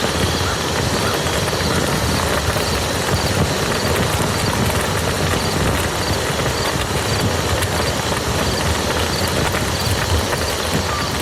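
Steady rain falling on a muddy field: a dense, even patter of drops.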